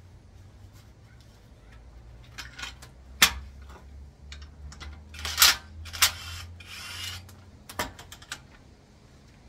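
Metal tools and parts clinking and knocking: a series of sharp clanks, the loudest about three seconds in and again around five and a half seconds, with a brief rattle in between, over a low steady hum.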